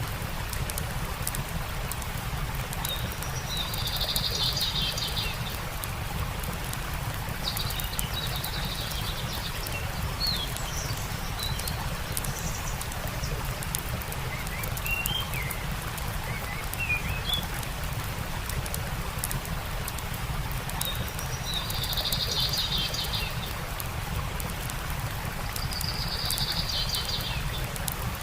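Steady rushing of a stream with birds calling: a buzzy trill sung four times and scattered short chirps. Small sharp crackles of a campfire run throughout.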